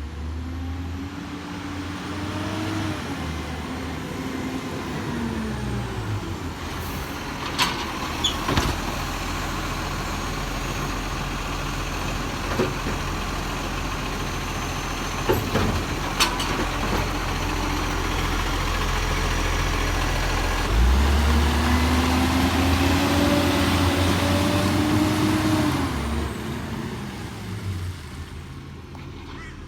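Garbage truck engine revving up and settling back twice, with several sharp knocks and bangs in between.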